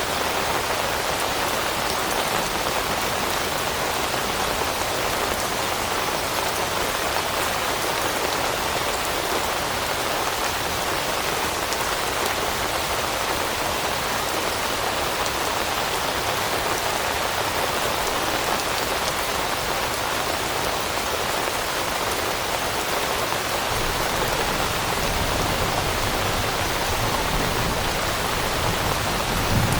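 Steady, even rain falling on leaves, a dense patter of drops.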